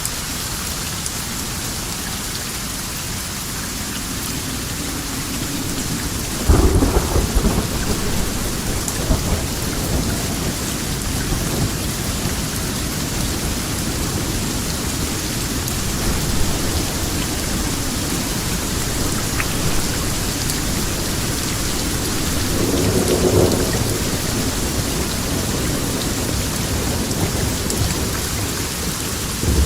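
Steady heavy rain with thunder: a sharp, loud clap about six seconds in that rolls on as a low rumble for several seconds, and a second, softer roll of thunder later on.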